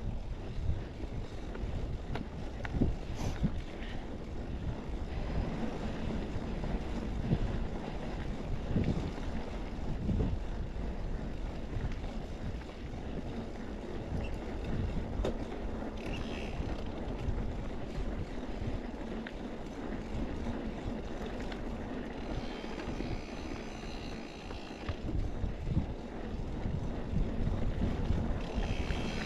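Wind buffeting the microphone over the rolling rumble of mountain bike tyres on a dirt trail, with scattered small knocks and rattles from the bike.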